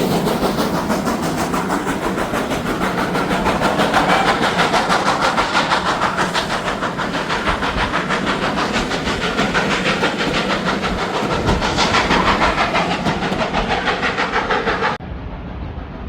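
A train running past with a fast, regular beat. The sound drops away suddenly about a second before the end, leaving a quieter train sound.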